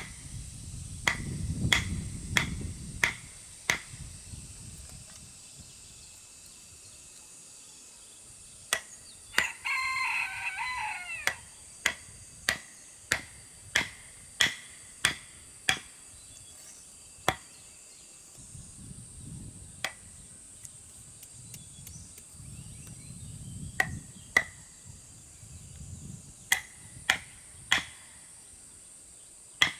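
A rooster crows once, a call of about two seconds, about nine seconds in. Around it come runs of sharp knocks at nearly two a second, with pauses between runs.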